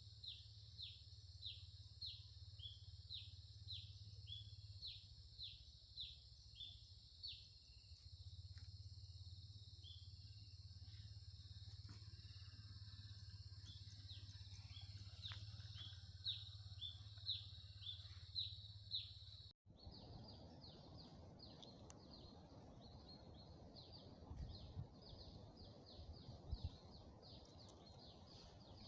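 Faint rice-field ambience: a bird repeats a short call that slides downward, about twice a second, over a steady high insect drone. After a cut about two-thirds in, the calls come faster over a low rushing noise.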